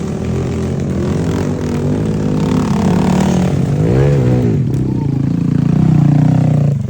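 Off-road vehicle engine revving up and down under load on a rough trail, rising to its loudest near the end and then dropping off sharply.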